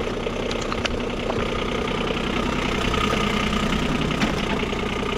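Small diesel engine in a diesel-swapped Power Wheels ride-on, idling steadily while it warms up to running temperature, with a few faint ticks in the first second.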